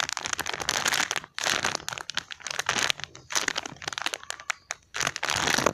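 Plastic packaging crinkling and rustling in irregular bursts as squishy toys are handled.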